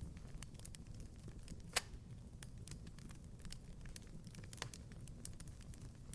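Wood fire crackling in a fireplace: a steady low rumble of the burning fire with scattered small pops and snaps, one sharper, louder pop a little under two seconds in.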